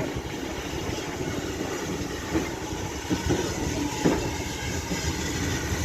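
Train running along the track: a steady rumble with a few separate clacks as the wheels pass over rail joints.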